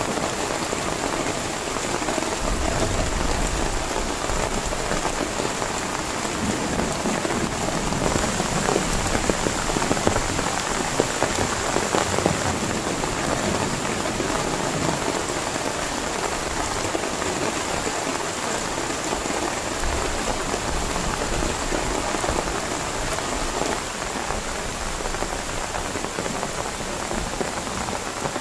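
Heavy rain falling steadily, a dense hiss of many small drop impacts with a few sharper ones.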